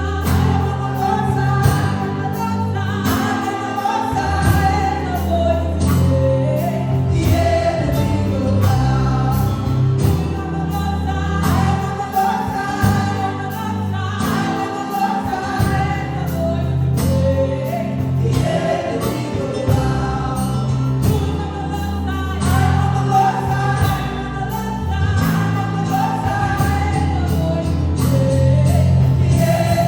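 Live gospel worship music: a group of singers singing a melody together over sustained bass and a steady beat.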